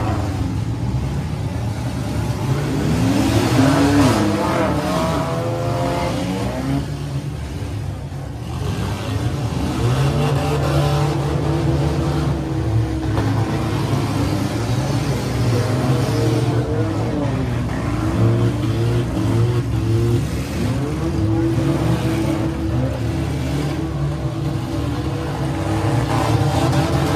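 Several six-cylinder demolition derby cars running at once, their engines revving up and down over and over as they drive around the arena.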